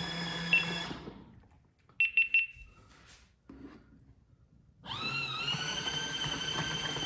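Portable folding mini washing machine's motor running with a steady whine, then stopping about a second in. Three short high beeps follow about two seconds in. Just before five seconds the motor starts again with a rising whine that settles into a steady run.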